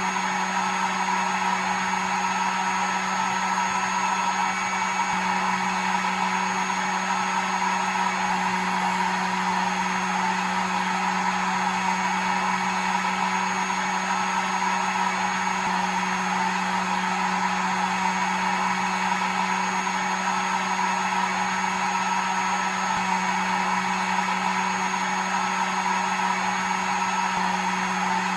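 Hair dryer running steadily: an even rush of blown air over a constant low motor hum, played as soothing white noise for a baby's sleep.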